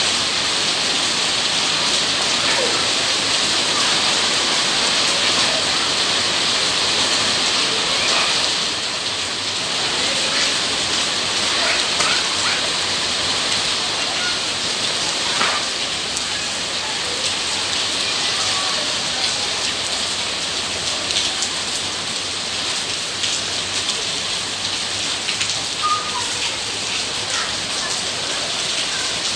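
Steady rain falling on wet paving and puddles, a little heavier for the first several seconds.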